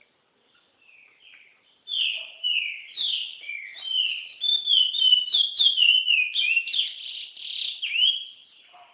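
Green-winged saltator (trinca-ferro) singing: a few soft notes, then from about two seconds in a loud run of sliding whistled phrases that stops near the end.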